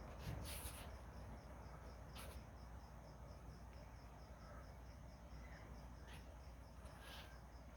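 Faint steady chirping of crickets, about five chirps a second, with a few short hissy rustles.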